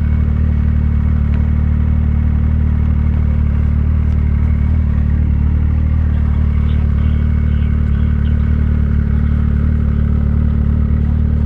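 Snowmobile engine running at a steady speed while riding, a constant low drone with no change in pitch.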